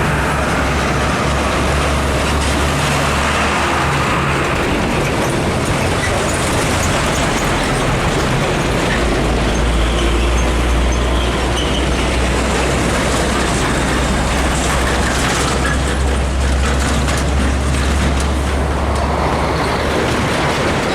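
Heavy road traffic: the steady low rumble of diesel truck engines running, under continuous tyre and road noise. The engine pitch shifts about a quarter of the way through as a different vehicle becomes the loudest.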